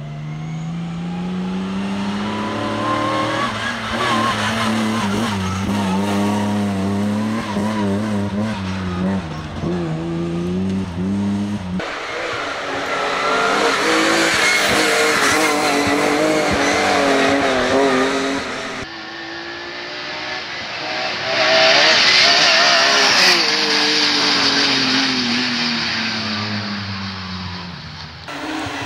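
BMW M3 rally car's engine revving hard and dropping back through repeated gear changes, with strong tyre and road noise. The sound changes abruptly twice, at about twelve and nineteen seconds, as between separate stretches of the stage.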